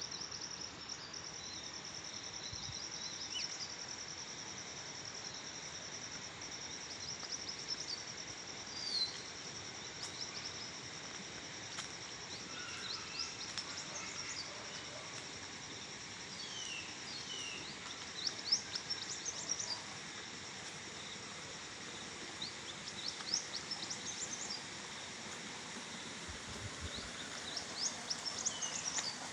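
Forest ambience. An insect trills steadily on one high note and fades out about halfway through. Short bird chirps and calls are scattered throughout, busiest in the second half, over a steady even hiss.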